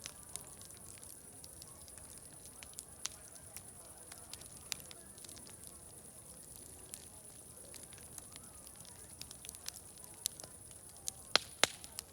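Wood fire crackling with scattered sharp pops. Two louder pops come close together near the end, over faint distant crowd chatter and a steady high hiss.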